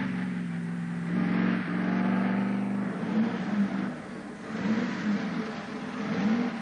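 A car engine running hard, its note stepping up and down and wavering as it accelerates and changes gear.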